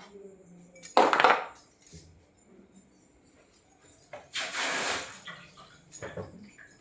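Kitchen utensils and dishes clattering: a loud metal clatter about a second in, a longer rattling scrape a little after four seconds, and small clinks between.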